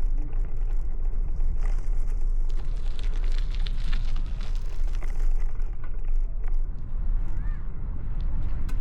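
Street noise heard from a moving bicycle: a steady low rumble of road and wind, with a vehicle hissing past between about two and a half and five and a half seconds in.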